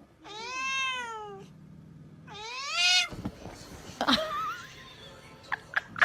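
A cat meowing twice, two long drawn-out meows that rise and fall in pitch, followed by a few short knocks.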